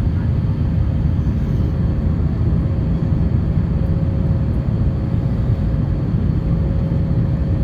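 Steady cabin noise inside an Airbus A350-900 airliner: an even low rumble of engines and airflow, with a faint steady hum over it.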